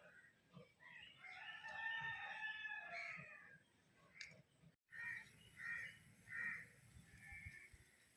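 A rooster crowing once, a drawn-out crow of about two and a half seconds, heard faintly. After a short break come four brief calls in a row, about one every 0.7 s.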